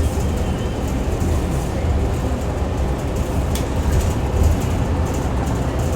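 Inside a moving transit bus: steady low engine and road rumble, with a single sharp click about three and a half seconds in.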